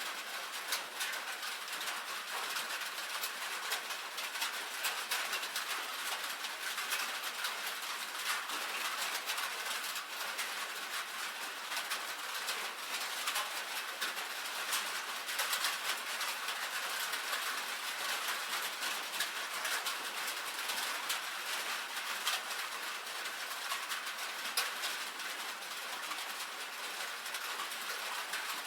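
Steady rain on a tin roof: a dense, even patter of countless drops ticking on the metal sheeting, with no let-up.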